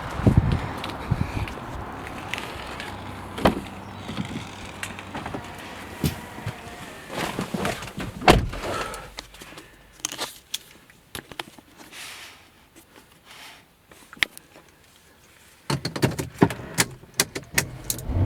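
Handling noises of a Mercedes ML63 AMG: a run of separate clicks and knocks from its doors and controls being worked, with a quieter spell about two-thirds of the way through.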